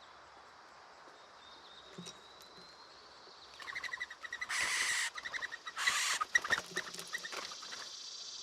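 Bird calling at a seed feeder: a rapid run of harsh chattering notes starts about halfway in, with two louder noisy bursts, over a steady high hiss.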